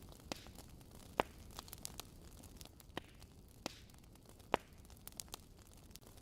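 Wood fire crackling in a fireplace: scattered sharp pops and snaps at irregular intervals, two louder ones about a second in and near four and a half seconds in, over a steady low rumble.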